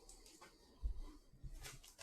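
Faint handling of trading cards and a card pack on a table: soft rustles and a dull knock a little under a second in, with a couple of lighter taps after.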